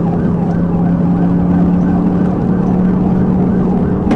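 Police car siren on a fast repeating yelp, about three rises and falls a second. Beneath it is the pursuing patrol car's engine, running hard at speed, its drone edging slowly up in pitch.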